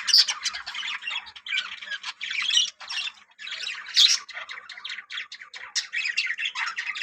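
A colony of budgerigars chattering and squawking, with many short overlapping calls and a brief lull about three seconds in.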